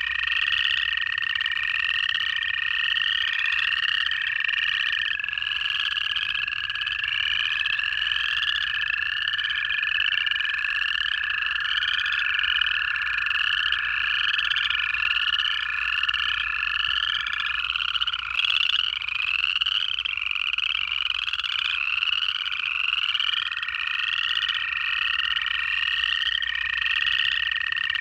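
Dense chorus of upland chorus frogs, their ascending trills repeating several times a second and overlapping. Underneath run the long, steady trills of American toads, several overlapping and each lasting many seconds.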